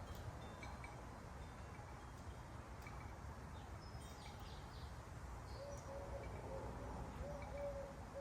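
Faint wild bird calls over a steady low outdoor rumble: a few quick high chirps about halfway through, then a series of soft, short low notes near the end.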